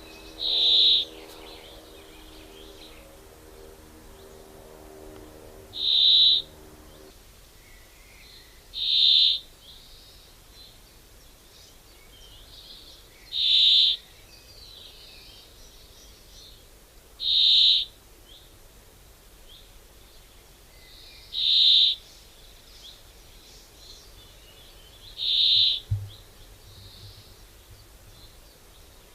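A bird repeating a short, high call about every four seconds, eight times. A low steady drone sits underneath for the first seven seconds, then stops.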